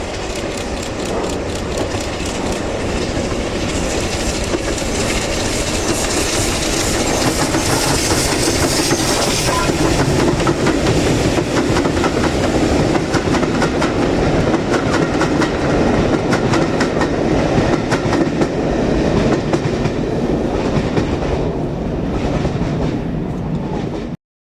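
Train running past on the line, a steady rumble with rapid clicks of the wheels over the rail joints, growing louder toward the middle. The sound cuts off abruptly just before the end.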